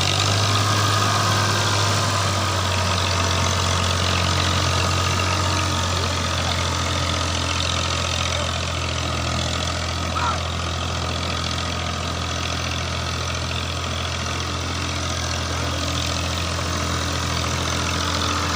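Massey Ferguson tractor engine idling with a steady, even hum. There is a short high chirp about ten seconds in.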